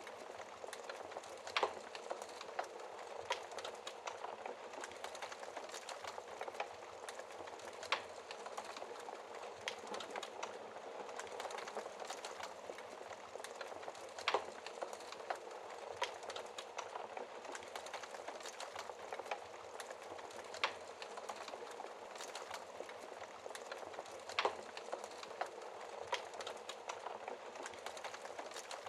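Wood fire crackling, with sharp pops every few seconds, over a steady hiss of rain.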